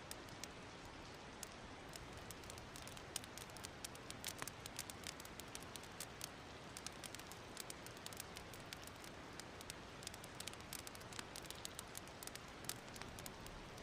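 Wood fire crackling: many irregular sharp pops and snaps over a steady soft hiss.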